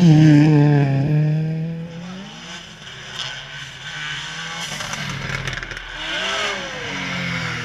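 Rally car engine at high revs passing close by, loudest right at the start, its pitch falling as it goes past and the revs drop. A few sharp crackles come about five seconds in, and the engine revs up again near six seconds.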